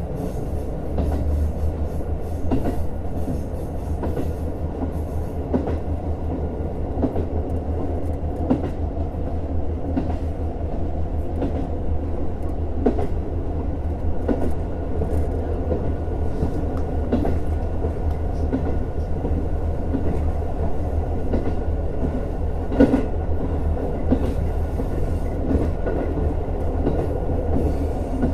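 JR Hokkaido KiHa 150 diesel railcar running along the line: a steady low diesel drone and wheel rumble, with scattered irregular clicks of the wheels over the track and one louder knock about 23 seconds in.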